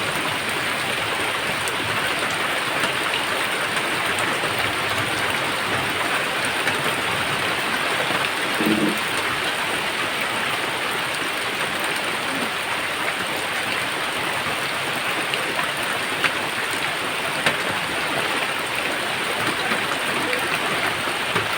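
Steady rain falling, an even hiss with scattered drop ticks, and a brief low tone about nine seconds in.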